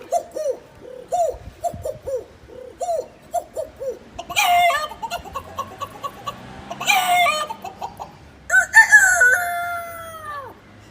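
A man imitating chickens with his voice: a run of about ten quick clucks, then two loud squawks, then a rooster's crow whose long held last note falls away at the end.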